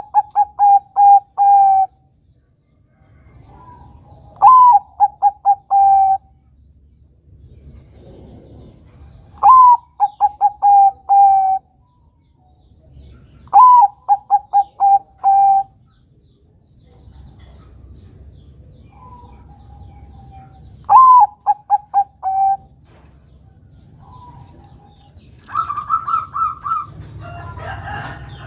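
Bangkok-type zebra dove (perkutut) cooing: repeated phrases of a short rising opening note followed by a quick run of four or five short coos, coming every four to five seconds. Near the end, a longer held higher note with overlapping calls.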